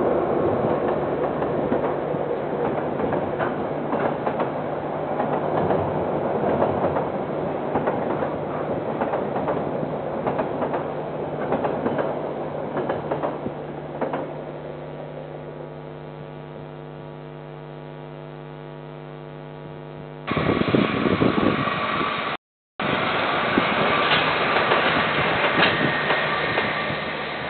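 KiwiRail train rolling past on the rails, with clicks from the wheels, fading away after about fourteen seconds under a steady electrical hum, as heard through a security camera's microphone. About twenty seconds in, the sound cuts abruptly to louder rushing noise, broken by a brief dropout.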